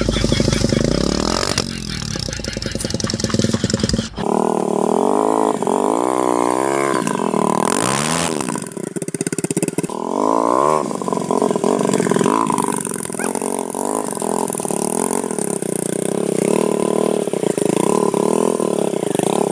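Motorcycle engine running while the bike is ridden over rough ground, its pitch repeatedly rising and falling with the throttle. About four seconds in, a sudden cut changes the sound.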